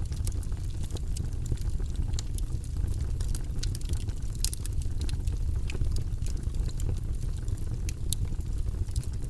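Wood fire burning in a fireplace: a steady low rumble of flames with irregular sharp crackles and pops from the logs, one louder pop about halfway through.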